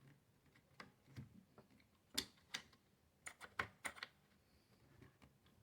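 Small, sharp metal clicks and taps as a punch is worked against the pin by the buffer tube on an AR lower receiver, trying to push the pin down. The clicks are irregular, about ten over several seconds, and the loudest fall about two to four seconds in.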